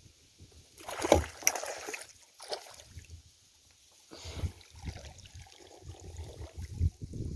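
Water splashing and sloshing around a small boat, with irregular low knocks from the hull and gear. Two louder splashes stand out, about a second in and about four seconds in.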